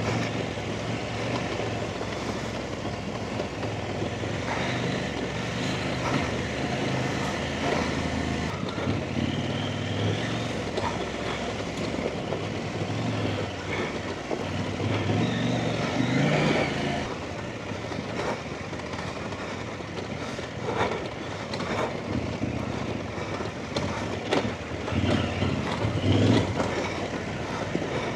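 Off-road dirt bike engine running as the bike is ridden along a rough trail, the revs rising and falling, with scattered knocks and clatter.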